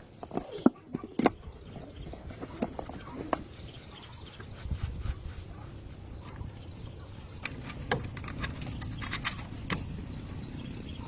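Sharp clinks and knocks of hand tools on metal, busiest in the first few seconds, over a low rumble that grows louder about halfway through.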